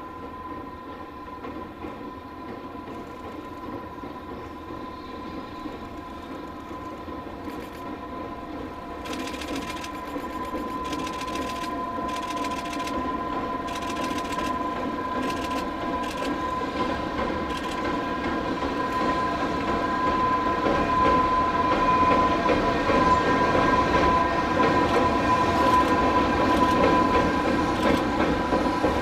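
EH500 electric locomotive hauling a rake of towed passenger coaches across a steel girder bridge, growing steadily louder as it draws near. A steady high hum runs over the rumble of the wheels, and from about a third of the way in the wheels click rhythmically over the rail joints.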